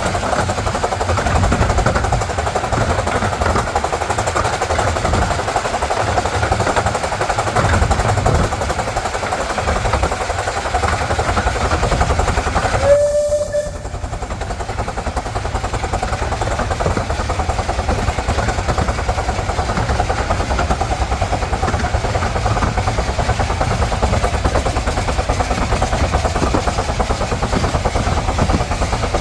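A 15-inch-gauge miniature railway train running, a steady loud rumble and clatter on the rails, with one short whistle toot about thirteen seconds in.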